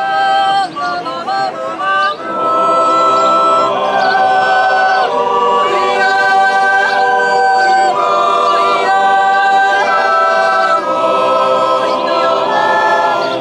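Swiss yodel choir singing unaccompanied: a lone yodeling voice leaping quickly between notes, joined about two seconds in by the full choir holding long chords.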